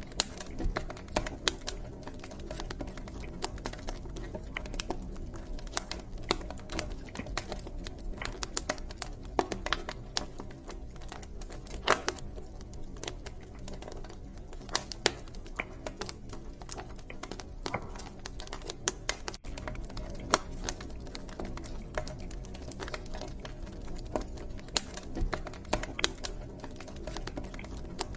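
Wood fire crackling in a fireplace: irregular sharp pops and snaps, some much louder than others, over a steady low rumble of the burning fire.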